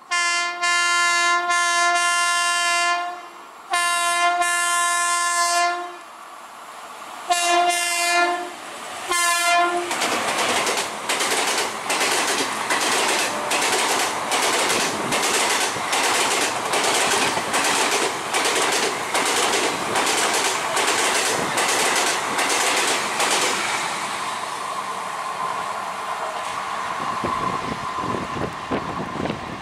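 WAP-5 electric locomotive's horn sounding two long blasts and then two short ones. The express's coaches then rush past with a fast clickety-clack of wheels over rail joints, about two beats a second, fading as the train moves away near the end.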